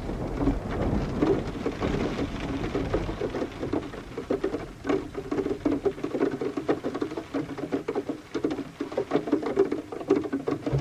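Rain pattering, with dense irregular drips. A low rumble of thunder dies away in the first few seconds.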